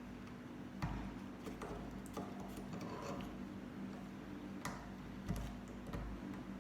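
A few scattered light clicks and taps of plastic Lego pieces being handled, as a minifigure is fitted onto a Lego speeder bike, over a steady low hum.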